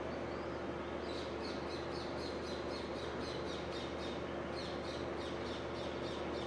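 A bird calling in a fast run of short, high, falling chirps, several a second, starting about a second in, over a steady hum and hiss.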